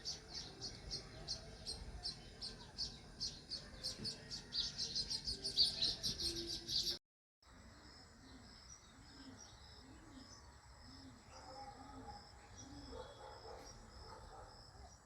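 House sparrows chirping in a rapid, dense run of repeated chirps. The chirping cuts off abruptly about seven seconds in, and after a brief break fainter chirping goes on.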